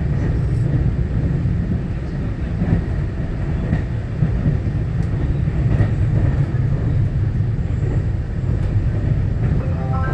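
Inside the passenger cabin of a Taiwan Railway EMU900-series electric commuter train running between stations: a steady low rumble of wheels and running gear on the rail, with a few faint ticks.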